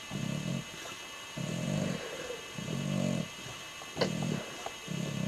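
English Bulldog snoring in its sleep: about five low snores, roughly one a second with short pauses between breaths. A sharp click comes about four seconds in.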